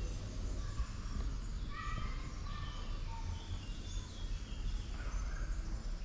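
Birds chirping, many short high calls scattered through, over a steady low background rumble.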